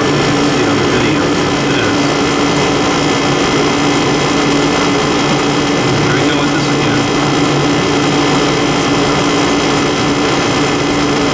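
Vintage air conditioner running: a steady rush of fan air with a constant hum underneath.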